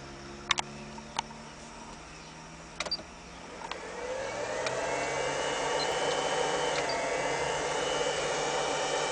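A machine's low steady hum with a few sharp clicks, then a whining rush that rises about four seconds in and holds steady, louder than before.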